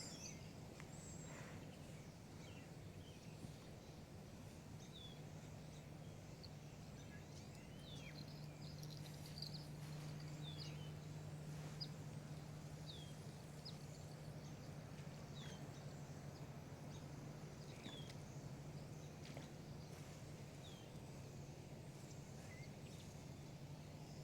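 Quiet riverside ambience: a bird repeats a short, high, falling chirp every two to three seconds over a faint steady low hum.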